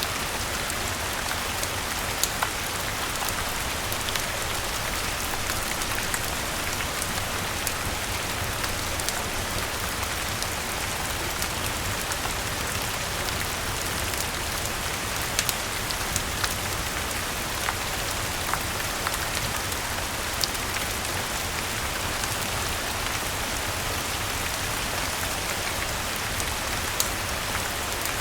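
Steady rain falling, mixed with a fireplace crackling, with a few sharp pops scattered through it.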